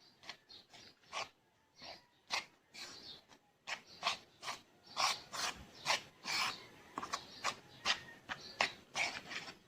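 A series of short rubbing or scraping strokes, irregular at about one to two a second, getting louder about four seconds in.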